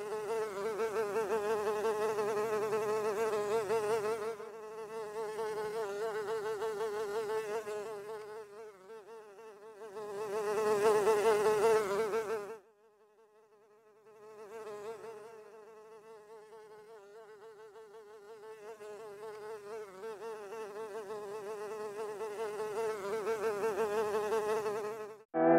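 A fly buzzing in flight: a droning hum that wavers in pitch and swells and fades. It is loudest about eleven seconds in, breaks off briefly just after, then comes back and grows again toward the end.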